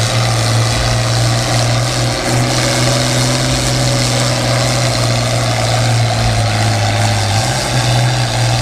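A pulling tractor's engine running loud and steady as a deep drone, its pitch shifting slightly near the end.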